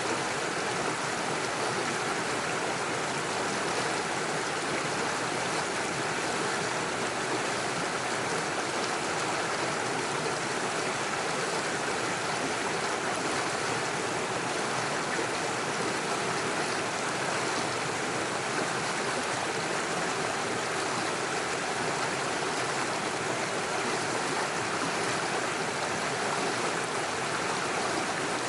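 Small rocky stream rushing and splashing over stones and little waterfalls in a steady, even flow.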